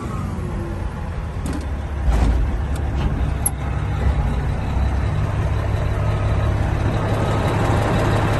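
Cat 740 articulated haul truck's diesel engine running steadily at a low idle, with a few light clicks in the first few seconds.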